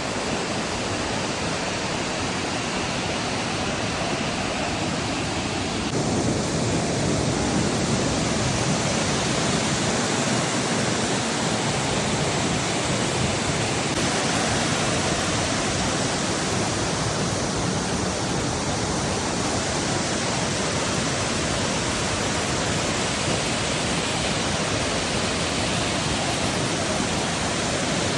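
A large, wide waterfall's water rushing steadily, with a slight shift in its character about six seconds in.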